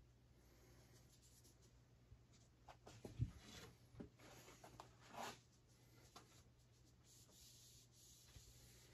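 Faint scratching and rubbing from hand work on wooden arrow shafts, with one sharp knock about three seconds in and short brushing strokes a little later.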